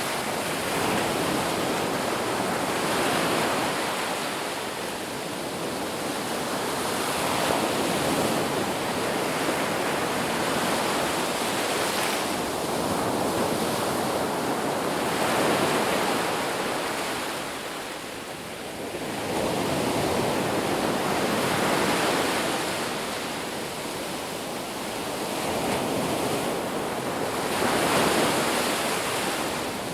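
Ocean surf washing onto a beach: a steady hiss of breaking water that swells and eases every few seconds.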